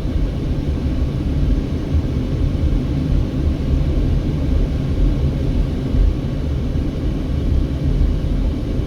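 Steady low rumble of a car driving slowly through town, heard from inside the vehicle: engine and tyre noise with no distinct events.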